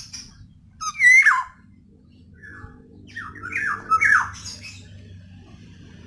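Female black-naped oriole giving harsh calls that slide down in pitch: one about a second in, then a quick run of three or four more between about two and a half and four and a half seconds in.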